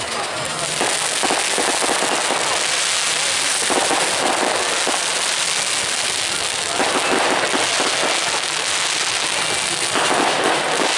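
Fireworks display: dense, continuous crackling and popping of many fireworks going off together, swelling louder every few seconds.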